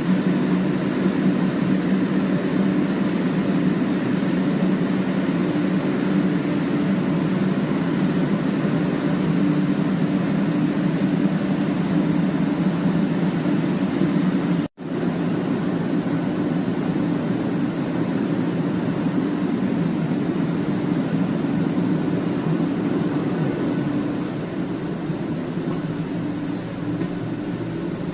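Steady running noise inside a 500 series Shinkansen carriage at speed: a low rumble and hum that hardly changes. It drops out for an instant about halfway through.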